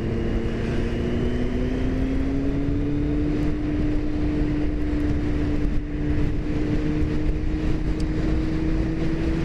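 Motorcycle engine running under way, its note rising slowly and steadily as the bike gains speed, over steady wind and road noise.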